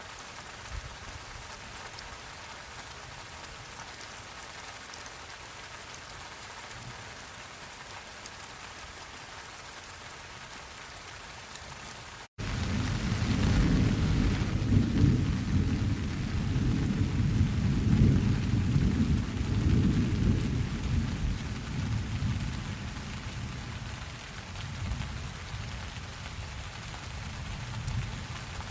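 Steady rain falling; about twelve seconds in, after a split-second dropout, a long low rumble of thunder starts, swells for several seconds and slowly fades while the rain goes on.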